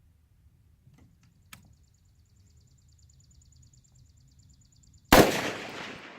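A single loud blast about five seconds in, with a long rolling echo that dies away slowly. Before it come a couple of faint clicks and a fast, even high ticking.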